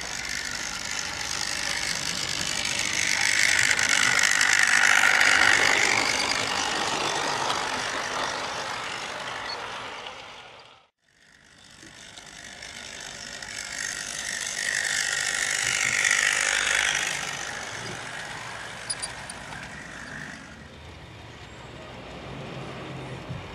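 00 gauge model trains running on outdoor track, the electric motors and wheels rattling over the rail. Two trains pass, each getting louder as it nears and fading as it goes, with the sound cutting out briefly about halfway through.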